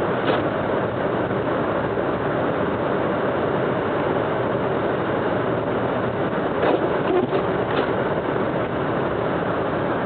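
Car driving on a snow-covered road: steady, even engine and tyre noise, with a few light knocks about two thirds of the way in.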